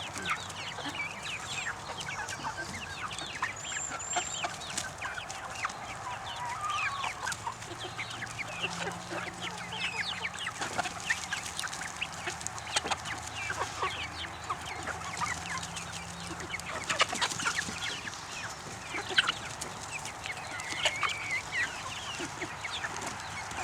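A flock of young chickens clucking and peeping over a handful of serviceberries, many short calls overlapping throughout.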